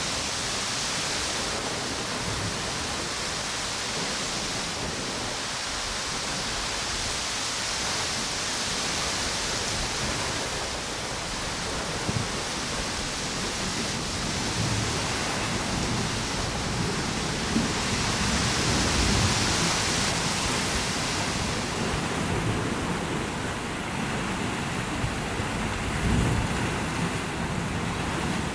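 Surf washing onto a beach in steady swells, with strong wind blowing through palm trees and gusting on the microphone now and then.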